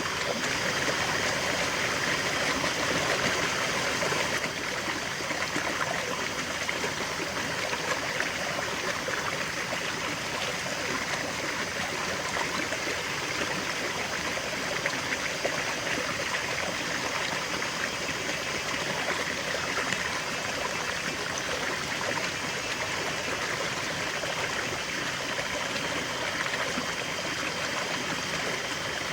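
River water flowing steadily over stones, a continuous rushing and trickling, a little louder in the first few seconds.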